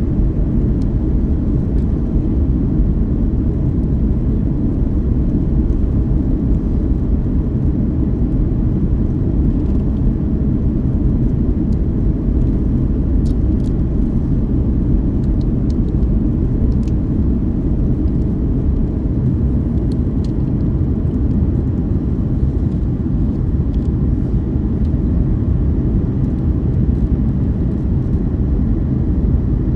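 Steady low rumble of an airliner in flight, its engines and airflow heard from inside the cabin. A few faint ticks come through about halfway in.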